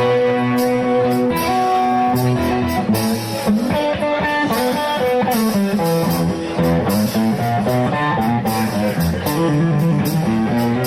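Live blues band playing an instrumental intro led by electric guitar over bass, with a steady drum beat.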